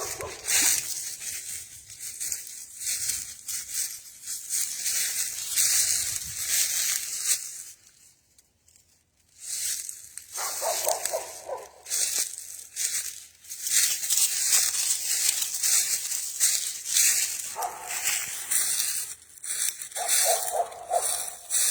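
Footsteps crunching through dry leaves and brush, with a brief pause near the middle. In the second half a dog whines briefly a few times.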